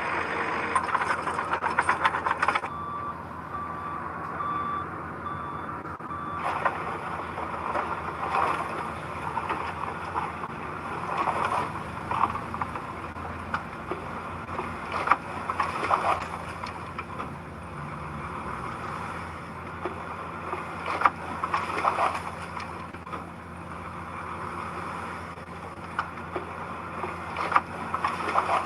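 Diesel construction machinery running, with a reversing alarm beeping steadily for a few seconds near the start and scattered metallic clanks throughout.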